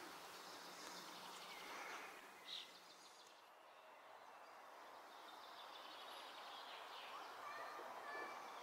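Faint outdoor ambience: a steady hiss with a few brief, thin chirps of small birds, one about two and a half seconds in and a short run near the end.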